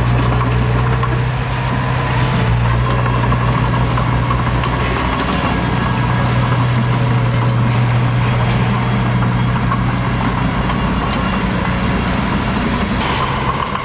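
Diesel engine of heavy earthmoving machinery running steadily with a low drone, its note dipping briefly about five seconds in.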